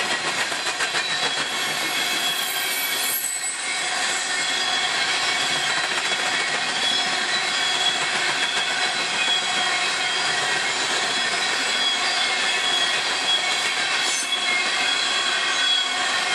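Coal train's cars rolling past at speed: steady noise of steel wheels on rail, with high, steady wheel-squeal tones over it.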